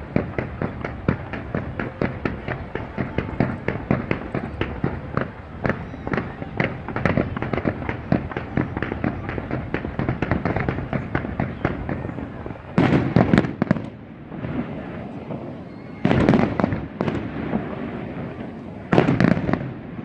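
Fireworks going off in a rapid, continuous crackle of sharp pops, with three louder bursts a few seconds apart in the second half.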